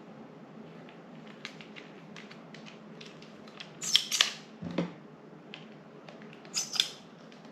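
Handling noise of a phone holder and clamp mount being fitted together: a run of small clicks and light scrapes, with louder rattling scrapes about four and nearly seven seconds in and a dull knock just before five seconds.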